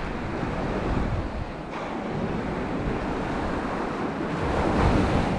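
Waves breaking on the beach with wind buffeting the microphone; the surf noise swells near the end.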